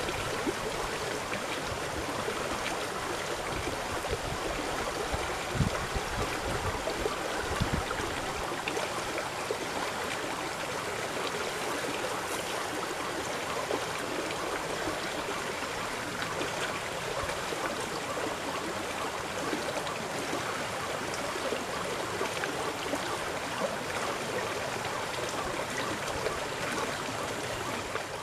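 Steady rush of flowing river water, with a few soft low knocks in the first several seconds.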